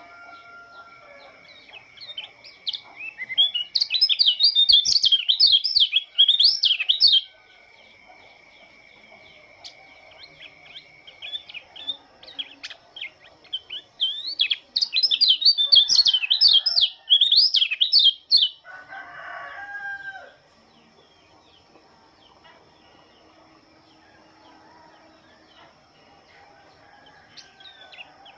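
White-eye (pleci) singing: two long runs of fast, high warbling song a few seconds each, with scattered short chirps between them. A rooster crows once in the background about two-thirds of the way through.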